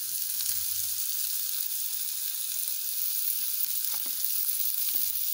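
Chopped red onions sizzling in hot oil in a non-stick frying pan: a steady frying hiss.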